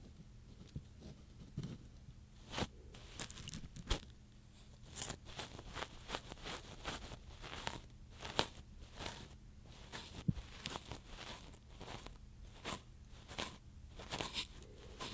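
Ear pick scratching and scraping against the microphone in slow, close-up ear cleaning: irregular crackly scratches, a few each second, over a faint low hum.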